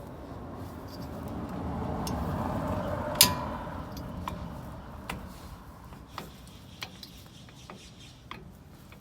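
Sharp metallic clicks and clinks of tools and brake parts being handled, one much louder about three seconds in, then lighter ones at uneven intervals, over a rush of noise that swells and fades in the first few seconds.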